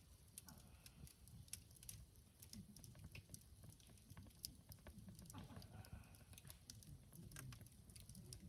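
Faint crackling of a wood campfire: scattered sharp pops and ticks at an irregular pace over a low rumble.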